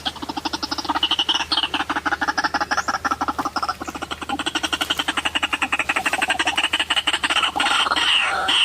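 White-breasted waterhen calling: a fast, even run of croaking pulses, about ten a second. Near the end the calls grow louder and more varied.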